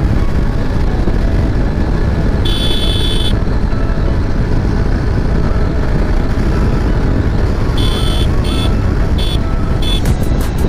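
Motorcycle riding at speed, with a steady rush of wind and road noise heavy in the bass. Short high-pitched tones come in briefly about two and a half seconds in and again several times near the end.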